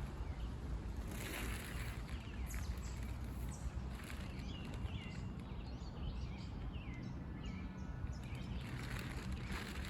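Outdoor woodland ambience: a steady low rumble of distant road traffic, with small birds chirping through the middle and swells of hiss near the start and the end.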